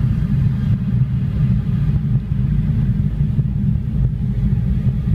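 Steady low rumble of a car, heard from inside it.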